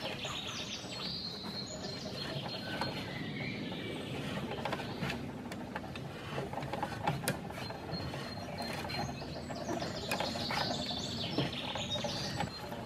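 Birds singing in the trees, with scattered clicks and rattles from a hand-worked mechanism on a wooden post.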